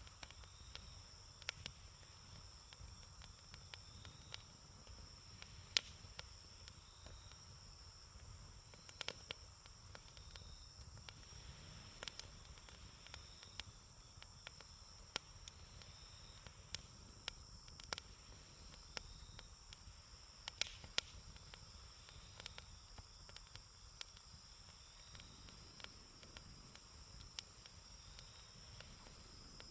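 Wood campfire crackling faintly, with irregular sharp pops and snaps, over a steady high chirring of insects such as crickets.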